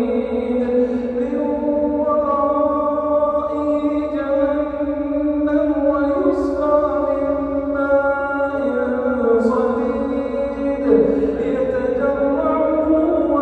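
A man chanting the Quran in a slow, melodic style, holding long drawn-out notes that step up and down in pitch from phrase to phrase.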